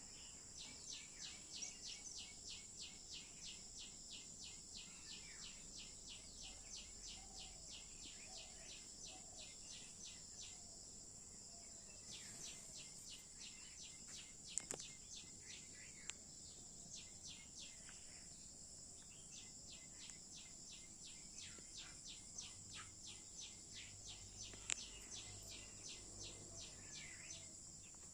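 A bird chirping in long runs of short, repeated notes, about three a second, with a couple of pauses, over a steady high-pitched insect trill. A few sharp clicks stand out.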